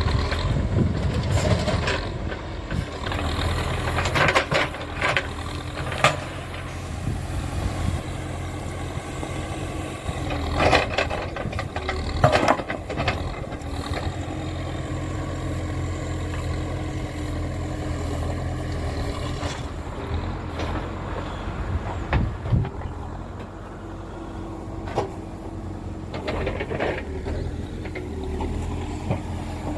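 Diesel engine of a working backhoe loader running steadily, with sharp clanks and knocks now and then.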